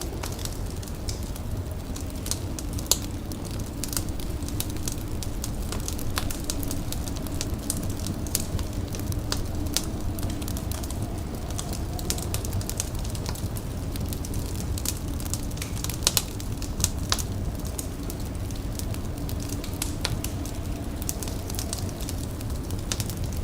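Wood fire crackling, with scattered pops and snaps over a steady low rumble.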